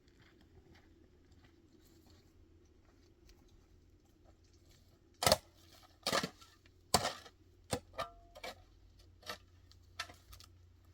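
A quiet stretch, then a series of sharp knocks and snaps starting about halfway in: three loud ones a little under a second apart, followed by several lighter ones.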